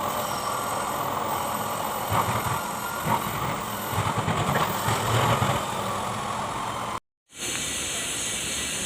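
Kubota D905 three-cylinder diesel engine running steadily, with a short dropout to silence about seven seconds in.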